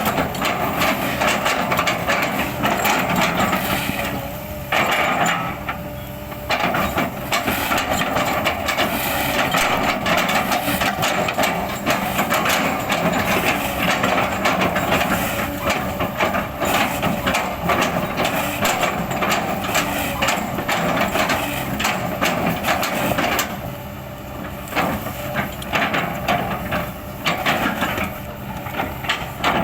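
Kobelco hydraulic excavator working, its diesel engine running under load beneath dense cracking and crunching as the bucket chops up oil palm trunks. The crunching eases off twice, about five seconds in and again a few seconds before the end.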